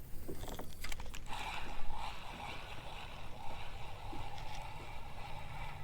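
Water lapping and sloshing against a kayak hull, with a few light knocks against the boat in the first two seconds.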